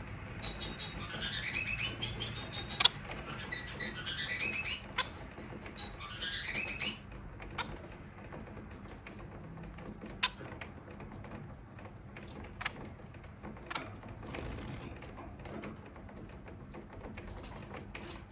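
Bengalese (society) finch singing three short, rising, buzzy phrases in the first seven seconds, followed by scattered sharp clicks and taps, over a steady hiss of rain.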